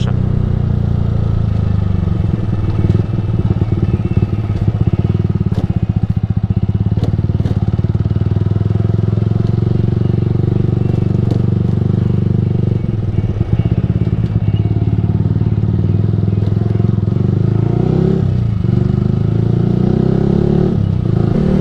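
Yamaha R15 V3's single-cylinder 155 cc engine running through an aftermarket Ronin Musashi exhaust at a steady cruise. Stretches of rattling and knocks from riding over broken road come a few seconds in and again about two-thirds through.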